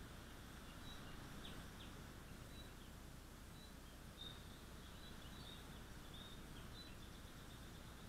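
Faint wild bird calls: short high chirps repeated every second or so, with a couple of quick falling notes about a second and a half in, over a steady low hiss of background noise.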